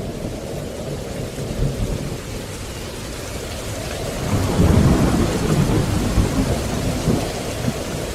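Steady rain with a low rumble of thunder that swells about four seconds in and dies away over the next few seconds.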